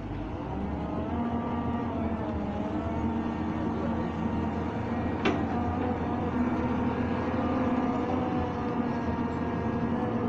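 Excavator's diesel engine running under load, its pitch wavering slightly in the first seconds, with one sharp click about five seconds in.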